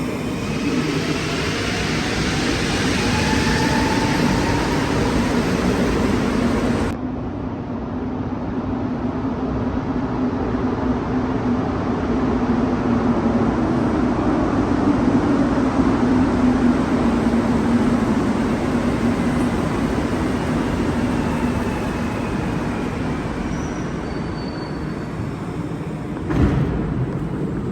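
Rubber-tyred Montreal metro train running in the station: a steady rumble and drone, with rising whining tones in the first few seconds.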